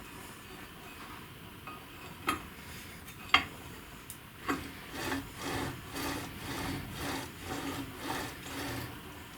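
Two sharp clicks, then a run of back-and-forth scraping strokes, about two a second, like a hand tool worked over a workpiece.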